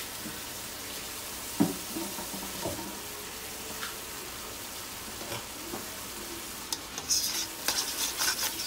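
Diced chicken sizzling in a wok with a steady hiss, and a couple of soft knocks about one and a half and two and a half seconds in. Over the last couple of seconds a spoon scrapes and stirs the pieces in quick strokes.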